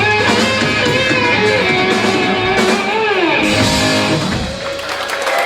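Live rock band playing, with electric guitar to the fore and bending lead notes. The playing thins out near the end as the song finishes.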